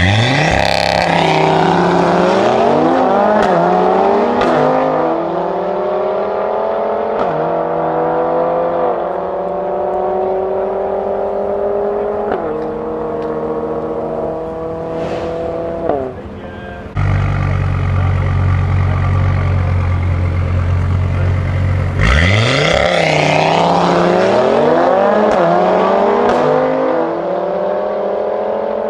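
Mercedes-AMG A45S with a decat Akrapovic exhaust and OPF delete, alongside an Audi RS3 Sportback, launching hard in a drag race. The engines rev up through the gears, dropping back at each of several quick upshifts as the cars pull away. About seventeen seconds in, the sound cuts to both engines idling at the line. A second hard launch comes about twenty-two seconds in, with the revs climbing again through the gear changes.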